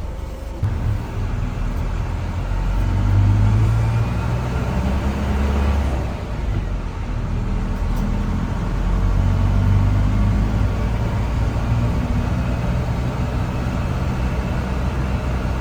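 Airliner engines heard inside the passenger cabin: a steady low drone that swells and eases a little.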